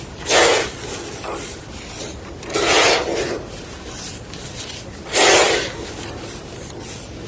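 A big slab of gym chalk being crunched and crumbled by hand: three short, gritty crunches roughly two and a half seconds apart, with a faint smaller one after the first.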